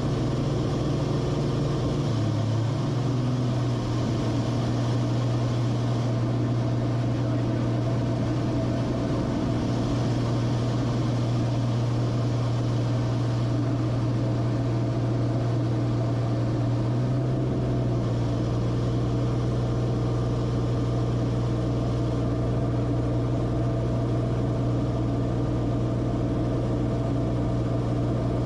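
Cessna Corvalis TTX's turbocharged six-cylinder piston engine droning steadily. Its low tone shifts slightly about two seconds in and again around seventeen seconds in.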